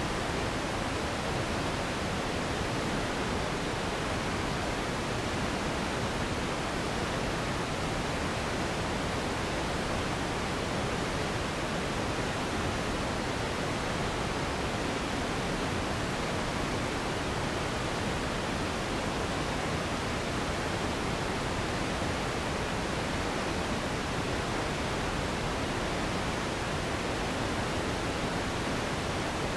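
Steady, unchanging noise track for sleep and relaxation: an even rushing hiss spread from deep to high pitches, with the top end softer.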